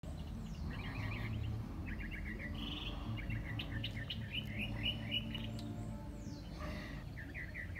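Wild birds singing: quick runs of chirps repeated several times, with a falling whistle near the start and another near the end, over a low steady rumble.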